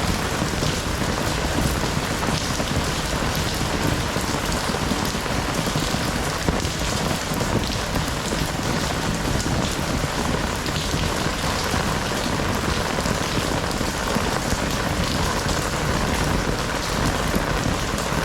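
Heavy rain falling steadily, a dense hiss of drops striking the ground and hard surfaces.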